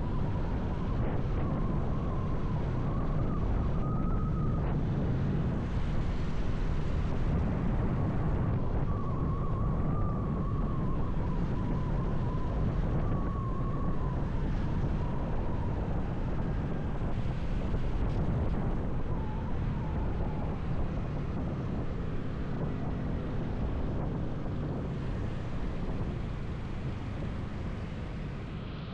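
Wind rushing over a motorcycle-mounted camera microphone while riding, with a faint wavering engine whine that comes and goes.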